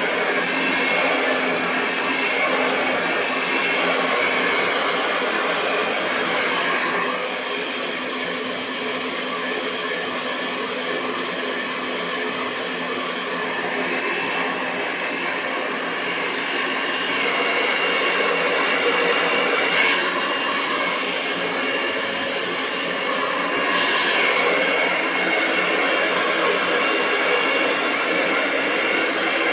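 Hair dryer running steadily with a continuous airflow rush and a faint motor whine, its level swelling and easing slightly every few seconds.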